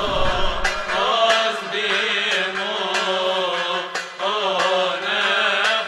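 Men's voices chanting a melismatic Coptic church hymn in slow, winding phrases over a steady low held note, with short sharp strikes at intervals.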